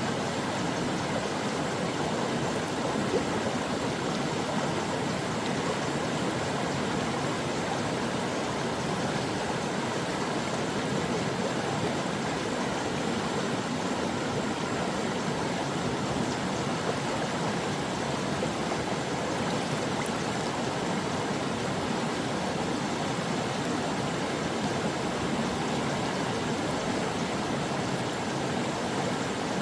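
Mountain stream flowing over rocks: a steady, even rush of running water with no change in level.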